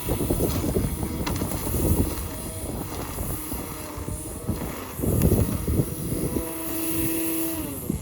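Petrol lawn mower engine running steadily, then winding down in pitch as it is shut off near the end.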